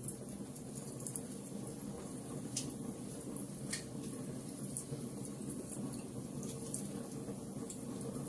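Wood fire burning in a fireplace: a steady low rush of flame with scattered sharp crackles and pops, two stronger pops about two and a half and nearly four seconds in.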